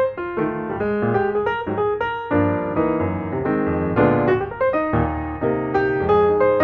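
Background music: a piano playing a lively run of notes and chords.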